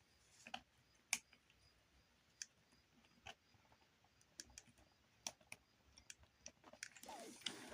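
Plastic toy figure parts clicking faintly as they are handled and fitted: scattered small sharp clicks that come closer together in the second half, with a soft rustle near the end.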